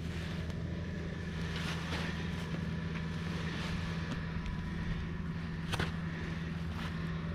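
An engine running steadily at one constant speed, with a steady higher whine over it and a single sharp knock about six seconds in.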